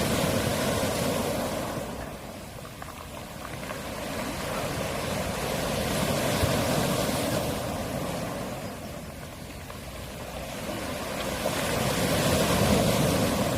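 Small waves washing up a pebble beach and drawing back, with the pebbles rattling and rolling in the backwash. The surf swells and fades in slow surges about every six seconds.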